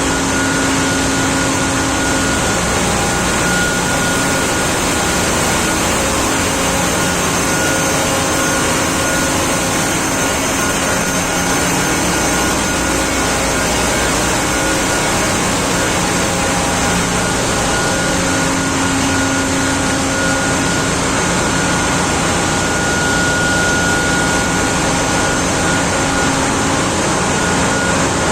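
Steady, loud machinery din of a ship's engine room, with several steady whining tones held over an even rush of noise.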